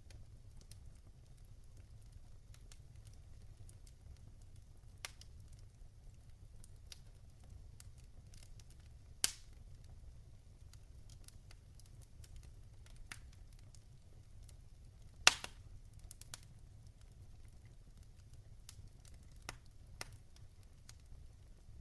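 Logs burning in a fireplace, crackling with scattered small pops and two louder snaps, about nine and fifteen seconds in, over a low steady rumble of the flames.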